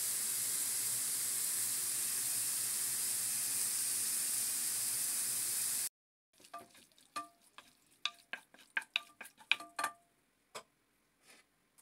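Chicken strips, onion and tomato sizzling steadily as they fry in oil in a wok. About six seconds in the sizzle cuts off, and a spatula scrapes and clicks against the pan in a quick run of short strokes, some with a brief ring, for about four seconds.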